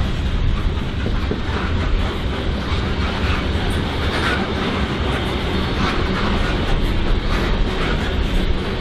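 BNSF freight train rolling past, its cars' wheels rumbling steadily over the rails, with irregular clacks and faint squeals.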